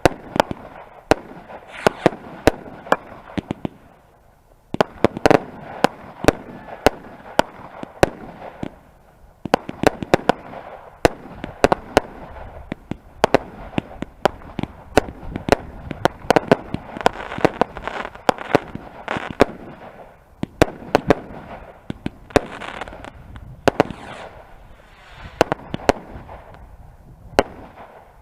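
Fireworks going off in quick succession: many sharp bangs and crackles in several clusters, with short lulls about 4, 9 and 20 seconds in.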